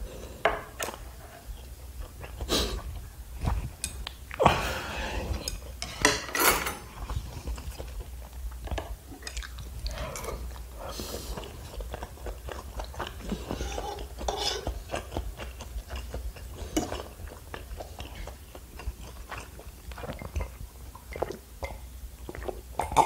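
Chewing of tteokbokki rice cakes, with chopsticks and a fork clinking against a frying pan.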